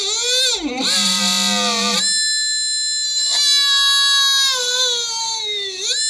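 Small DC motor of a homemade electric drill whining at speed. Its pitch drops sharply under load about half a second in and stays low for about a second before jumping back up, then sags and recovers once more near the end.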